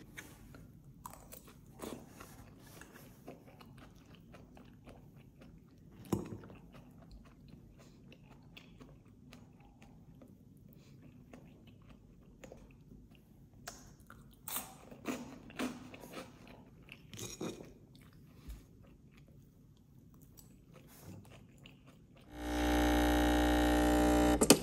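Someone chewing and crunching a leafy salad, with faint scattered clicks and one sharper click about six seconds in. Near the end a Breville espresso machine's pump buzzes loudly and steadily for about two seconds while pulling a shot, then cuts off.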